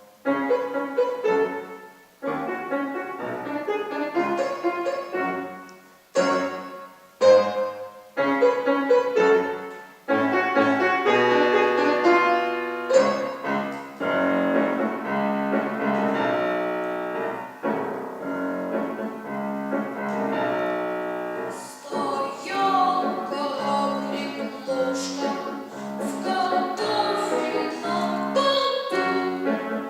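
Piano playing a short children's song piece, at first in separate chords with brief pauses, then in continuous phrases from about 13 seconds in.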